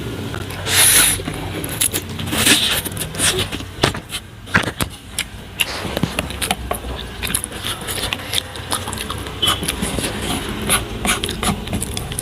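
Eating noodles with chopsticks: repeated small clicks and scrapes of the chopsticks against the bowl, with two short hissy bursts in the first few seconds.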